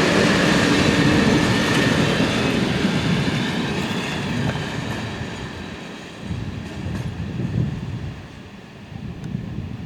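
A train running past on the rails and fading away, the wheel and running noise dying down over several seconds, with a thin high whine that fades out with it.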